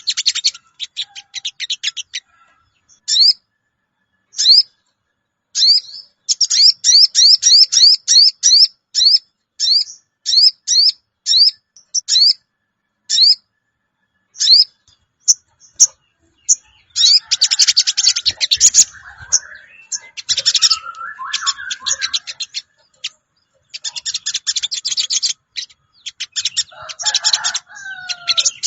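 Sogon birds calling in a trapping lure recording: a run of short, sharply rising 'cuwit' chirps, one after another, then from just past the middle dense, fast chattering trills with a lower warbling note beneath them.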